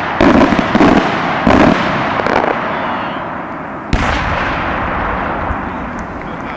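Multi-break aerial firework shell bursting: a quick run of about four loud reports in the first two and a half seconds, then one more heavy report about four seconds in with a long rolling tail.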